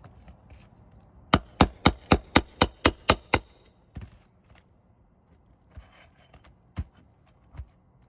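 A hammer striking metal, a quick run of nine ringing blows at about four a second, then a few single knocks. The blows work old roofing nails loose under 3-tab asphalt shingles so a replacement shingle can slide in.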